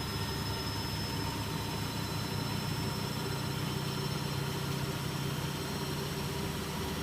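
Electrolux W455H commercial washing machine running with its drum spinning at a steady speed: an even motor hum with a faint high whine held above it.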